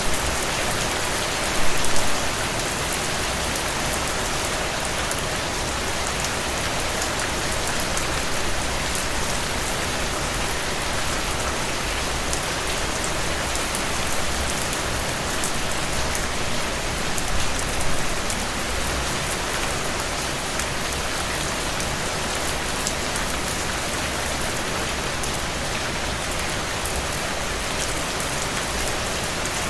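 Steady heavy rain falling: an even hiss with individual drops ticking through it. It swells briefly louder about two seconds in and again a little past halfway.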